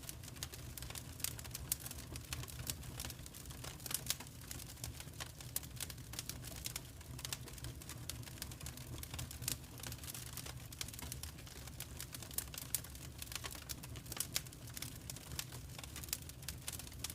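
Wood fire crackling, with irregular sharp pops and snaps several times a second over a steady low rumble of the flames.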